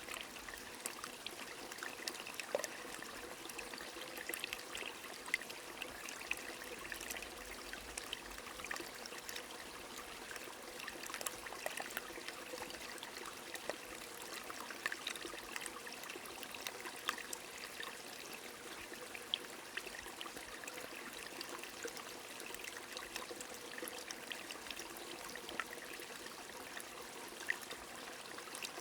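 Light rain falling alongside a small running stream: a steady wash of flowing water with scattered drop ticks.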